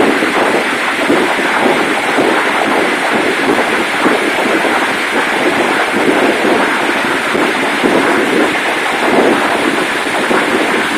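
Fireworks going off in a continuous, dense rumble with no single bang standing out.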